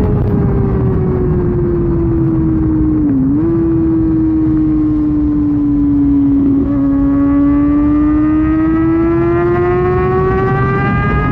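Kawasaki ZX-6R inline-four with an SC-Project exhaust running at highway speed over heavy wind rush. The engine note sinks slowly for the first six seconds or so, with a brief dip about three seconds in, then climbs steadily as the bike accelerates again.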